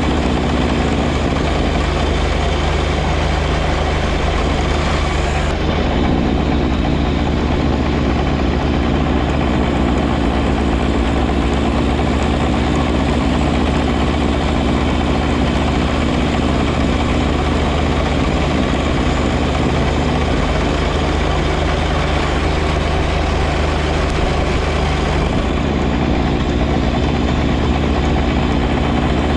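John Deere 1025R compact tractor's three-cylinder diesel engine running steadily while clearing snow with its front snow blower, with a constant low drone.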